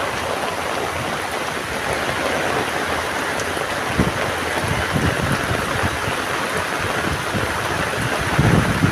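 Heavy rain pouring steadily, with a single sharp knock about four seconds in and wind gusting against the microphone near the end.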